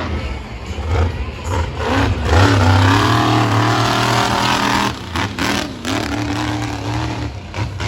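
Monster truck engine revving hard, its pitch climbing and holding, then cutting off about five seconds in among a few sharp knocks before it picks up again at a lower pitch.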